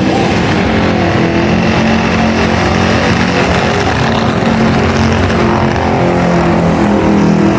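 A car's engine held at high revs during a burnout, running loud and fairly steady with small rises in pitch.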